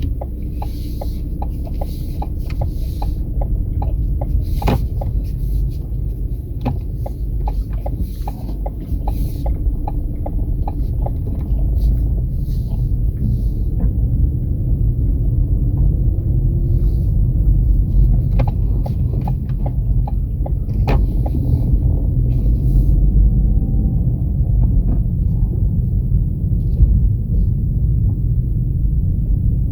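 Steady low rumble of a vehicle being driven, with a run of regular light clicks over roughly the first ten seconds and a few scattered knocks later.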